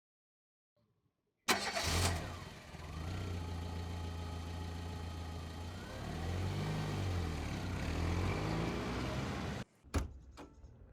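A Peugeot 508's 2.0 HDi four-cylinder diesel engine starting up about a second and a half in, then idling steadily. The revs rise briefly and fall back, and the engine is switched off suddenly near the end, followed by a single click.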